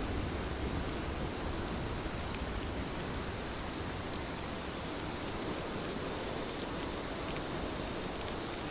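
Heavy rain falling steadily, a dense even hiss with scattered sharp ticks of individual drops.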